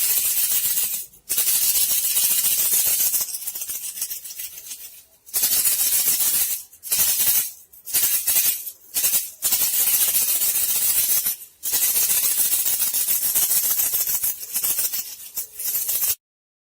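Rat-lure sound for bandicoot rats: a dry, hissy rattle in bursts of a second or a few seconds with short breaks between them, stopping abruptly near the end.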